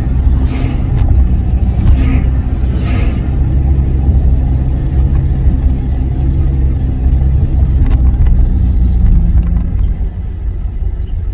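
A car's engine and road noise heard from inside the cabin while driving: a steady low drone with an even engine hum, easing off near the end.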